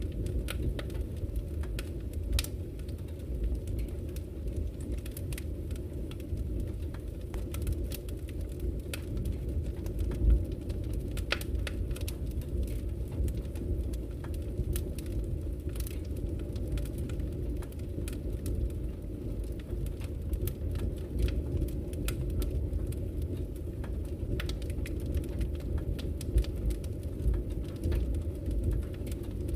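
Wood fire burning in a fireplace: a steady low rumble with scattered sharp crackles and pops, one louder pop about ten seconds in.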